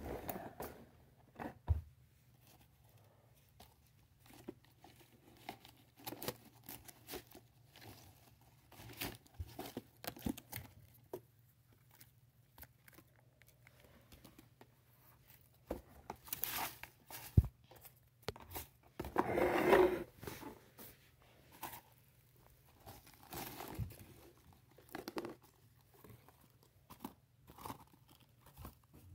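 Plastic toy front-loading garbage truck being worked by hand, its forks lifting and tipping toy dumpsters: scattered plastic clicks, knocks and scrapes, with one longer, louder scraping rattle about twenty seconds in.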